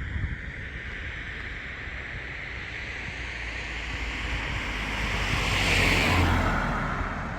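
Wind blowing across the microphone, a steady rumbling rush that swells into a stronger gust about six seconds in and then eases off.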